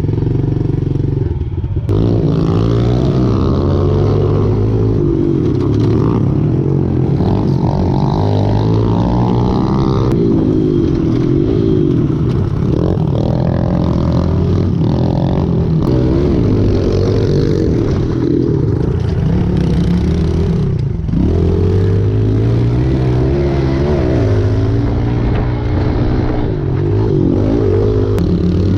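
Small pit bike engines revving on a dirt track, the pitch rising and falling again and again as the riders open and close the throttle.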